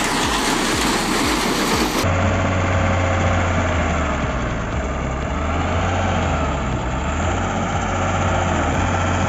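A wood chipper grinding for about two seconds, then an abrupt cut to a heavy engine running steadily with a low, even drone.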